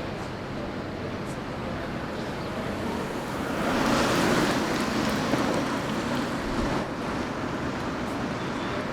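Steady outdoor rush of street traffic noise, swelling about four seconds in as it grows louder for a moment.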